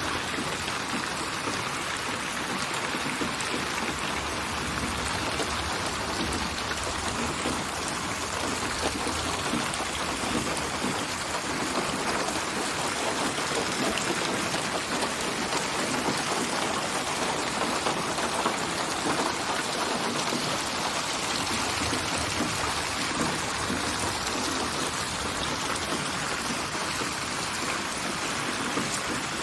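Steady rain falling, with raindrops pattering on surfaces, in a synthetic rain ambience built from many layered rain recordings and panned around the listener in 8D binaural surround.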